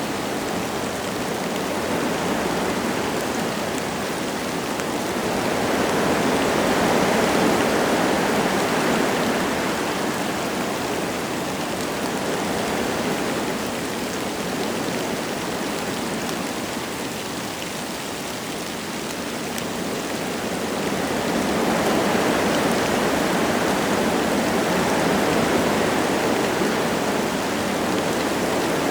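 Wind gusting through forest trees with light rain falling: a steady rushing noise that swells into two long gusts, one early and one in the last third, with a lull between.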